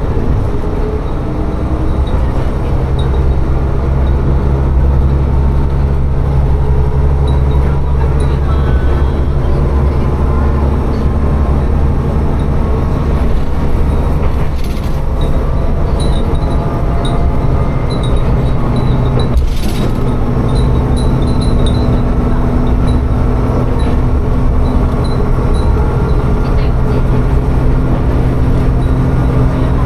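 Tsugaru Railway diesel railcar running along the line with a steady engine drone and rail noise. The engine note changes about two-thirds of the way through, and there are a couple of single knocks from the track.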